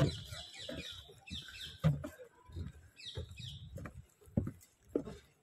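Birds chirping in short bursts, a string of quick high falling calls, over irregular low thumps and knocks.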